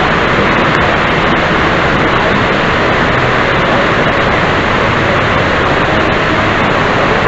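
Waterfall: a loud, steady rush of falling water, unbroken and without rhythm.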